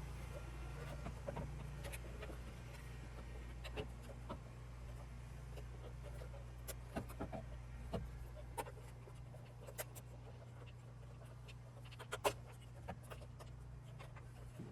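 Scattered small clicks and taps of plastic side-mirror parts being handled and pried apart, the sharpest about twelve seconds in, over a steady low hum.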